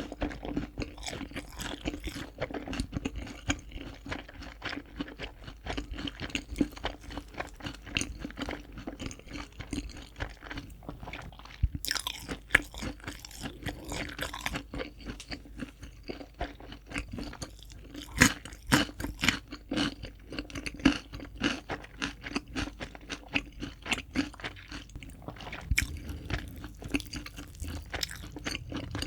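Close-up bites into and chewing of crispy fried chicken, the breaded crust crunching in dense, irregular crackles. A few louder crunches stand out about twelve and eighteen seconds in.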